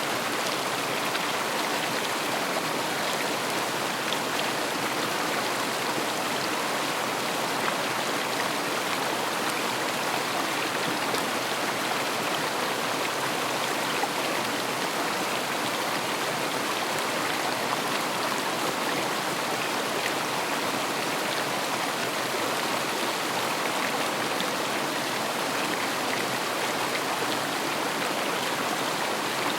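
River water rushing steadily over stones, an even, unbroken wash of flowing water.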